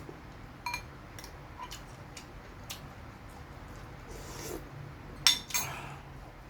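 Cutlery clinking against dishes while eating: several light clicks spread over the first few seconds, then two louder clinks close together about five seconds in.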